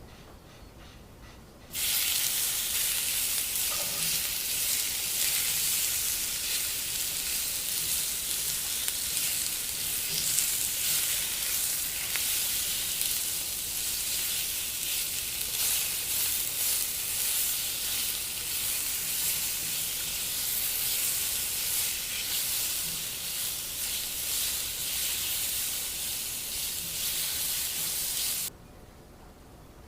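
Food sizzling as it fries in a hot pan, a steady crackling hiss that starts abruptly about two seconds in and cuts off suddenly near the end.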